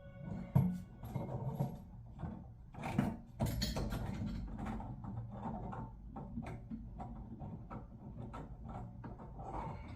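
Scattered knocks, clicks and light clatter of hands handling tools and faucet parts at a kitchen sink and its cabinet, with sharper knocks about half a second in and around three seconds in.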